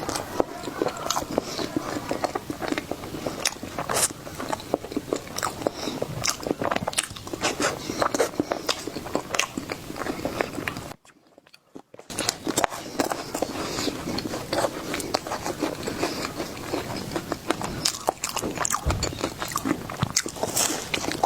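Close-miked eating of a dessert: bites and chewing with many irregular sharp, crisp clicks. The sound drops out for about a second near the middle.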